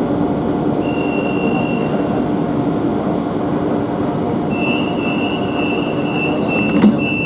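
Metro de Madrid series 8000 train running at speed, a steady rumble of wheels on rails. A thin high wheel squeal comes in briefly about a second in and again from about halfway to the end.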